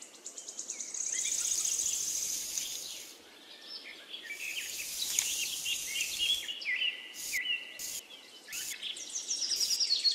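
Birds chirping in many short, quick calls over a soft steady hiss.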